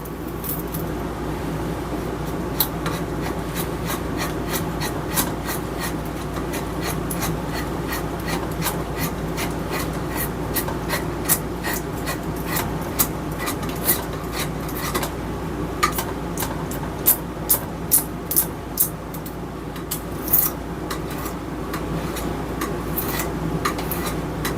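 A black locust handle blank being shaped with a hand tool: a steady scraping of tool on wood with many sharp, irregular ticks, busiest in the second half.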